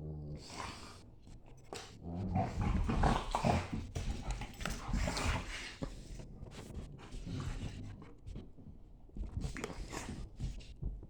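A German Shepherd and a Staffordshire bull terrier play-fighting, making odd vocal noises in irregular bursts. The noises are loudest between about two and five seconds in.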